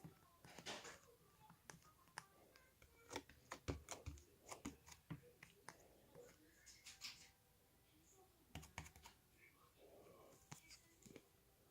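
Faint, irregular small clicks and soft scraping from objects being handled at close range.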